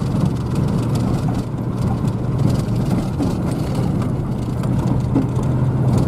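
Vehicle engine running steadily at a constant low hum, with road and tyre noise from driving.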